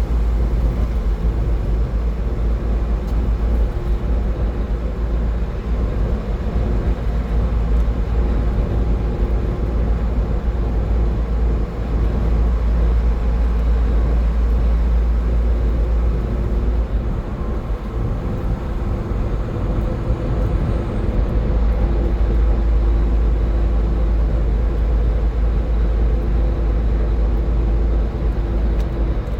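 Steady highway driving noise from a car at speed: a constant deep rumble with tyre and road hiss, and no sudden events.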